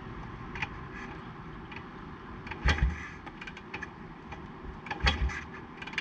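Yamaha SR500 single-cylinder being kicked over twice, about two and a half seconds apart: each kick is a short thud and clatter as the engine turns over without firing, the engine flooded. Light mechanical clicks come between the kicks.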